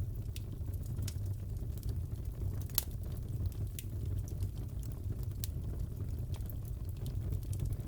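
Wood fire in a fireplace crackling, with scattered sharp pops over a steady low rumble; one louder pop comes about three seconds in.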